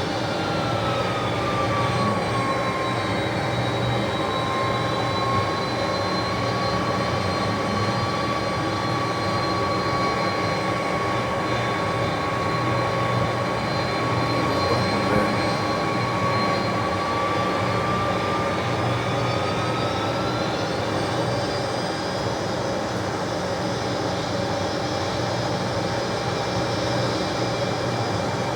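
Three-engined McDonnell Douglas DC-10 jet running at high power during takeoff, a steady roar with a high whine that dips slightly early on and rises again about 20 seconds in.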